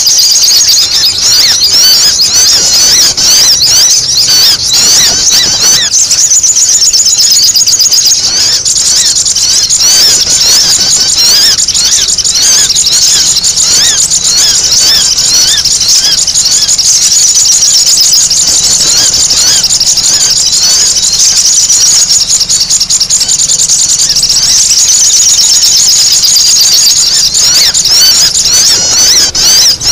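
Sunbirds (sogok ontong) calling excitedly: dense, overlapping high-pitched chirps and trills that run on without a break, a busy 'ribut' call used as a lure to bring the birds in.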